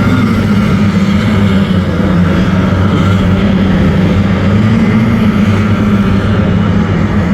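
Racing motorboat engines running steadily at speed, a loud drone whose pitch wavers slightly.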